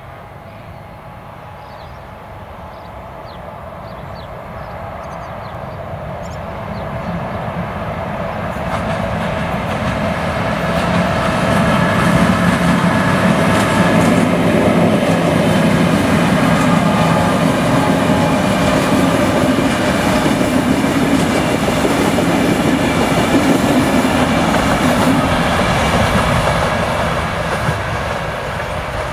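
Electric locomotive hauling a passenger train passing close by, its wheels running over the rails. It grows louder over the first ten seconds or so, stays loud while the locomotive and coaches go by, and fades near the end as the train moves away.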